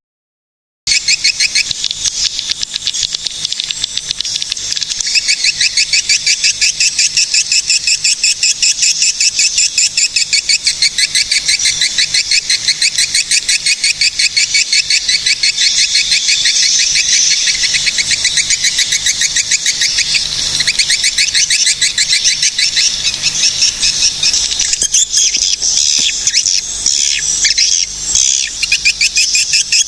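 Swiftlets' call: a dense twittering of high, rapid, evenly repeated chirps, used as a lure call for swiftlets. It starts abruptly about a second in and runs loud and unbroken, growing a little more varied near the end.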